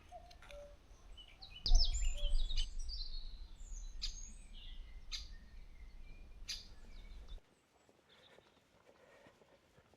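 Several wild birds singing and chirping in a mix of short phrases, with wind buffeting the microphone as a low rumble from just under two seconds in; the rumble and much of the birdsong drop away abruptly about seven seconds in, leaving quieter outdoor ambience.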